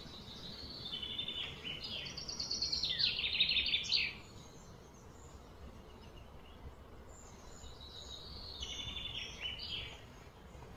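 A bird chirping in two bursts of rapid, high-pitched notes. The first and louder burst runs from about one to four seconds in, and a softer one comes near the end, over a faint steady background hiss.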